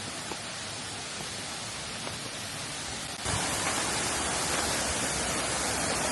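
Rushing water of a waterfall, a steady hiss that jumps suddenly louder about three seconds in.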